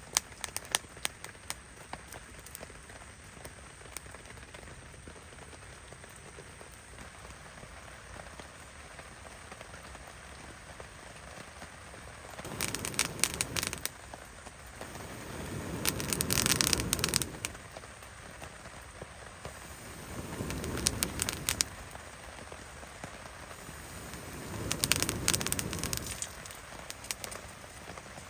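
Steady rain hissing, with scattered sharp crackles and pops. In the second half, four swelling whooshes rise and fall a few seconds apart, each peppered with crackles.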